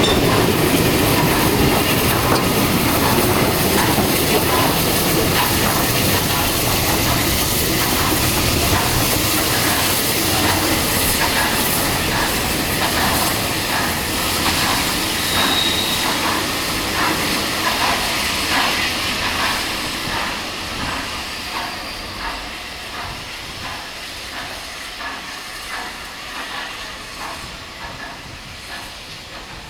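Steam-hauled train passing, with a steady hiss and regular beats about one and a half a second. It fades steadily as it draws away over the last ten seconds.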